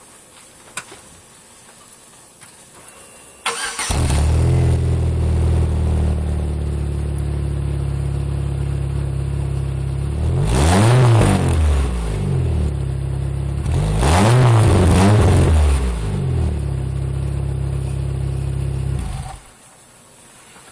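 2002 Chevy Cavalier's four-cylinder engine through a DC Sports aftermarket exhaust: it starts about three and a half seconds in and idles, is revved twice with the pitch climbing and falling back, then is switched off near the end.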